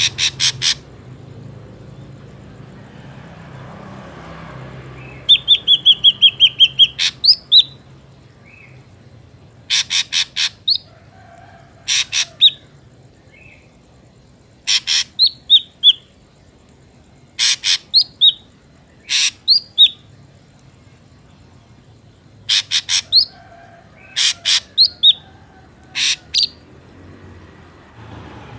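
Ashy drongo calls: repeated groups of sharp, clipped notes, each group trailing off in short upward-flicked whistles, recurring every two to three seconds. There is a quick run of even notes about five seconds in.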